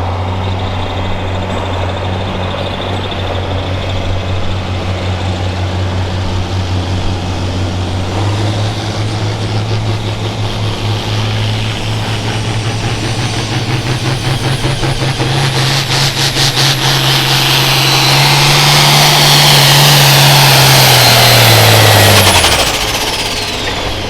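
Hot farm class pulling tractor's turbocharged diesel engine running steadily, then climbing in revs from about eight seconds in as it pulls the sled. It is loudest near the end, with a high turbo whine over the engine note. About twenty-two seconds in the throttle is cut: the engine note drops and the whine winds down.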